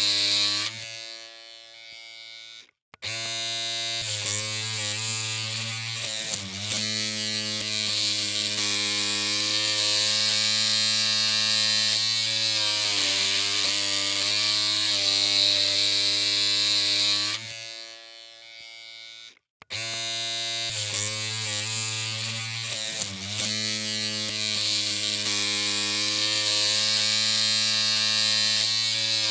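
Electric hair clippers humming with a steady buzz. About a second in the hum dies away to a brief silence and starts again about two seconds later; the same stop and restart happens again about 17 seconds in.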